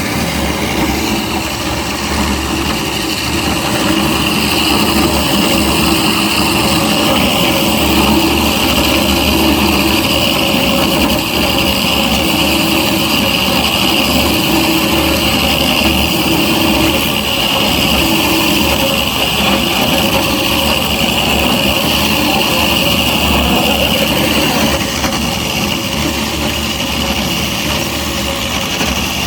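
DFG250 three-phase floor grinder with PCD shoes running steadily, grinding the coating off a concrete deck: a continuous motor drone with a high whine and a scraping hiss. It gets a little louder after a few seconds and eases slightly near the end.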